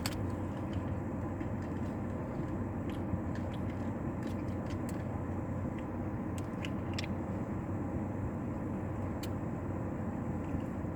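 Steady low hum inside a parked car, with a few light plastic clicks and taps from a phone being repositioned in its mount.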